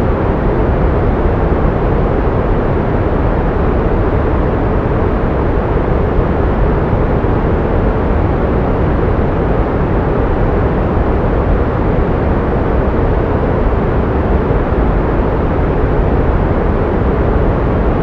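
Steady pink noise: an even, deep hiss weighted toward the low end, with no change in level or character.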